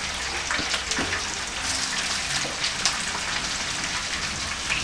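Plantain slices sizzling in hot oil in a frying pan: a steady sizzle full of small crackles and pops. This is the first fry before the pieces are pressed flat.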